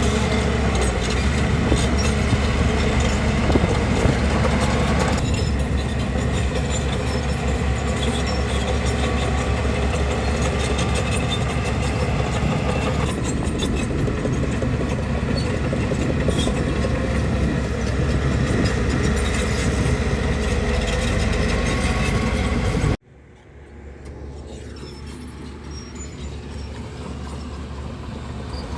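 Heavy diesel bulldozer engine running steadily under load with mechanical clatter. About 23 seconds in it cuts off abruptly, and a quieter machine sound takes over and slowly grows louder.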